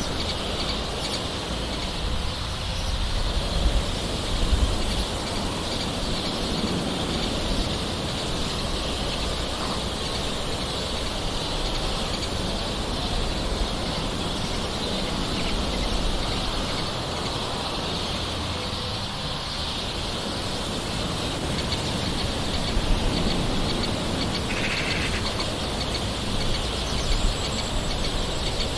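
Steady soft rain with birds calling through it, a short call standing out about three-quarters of the way through.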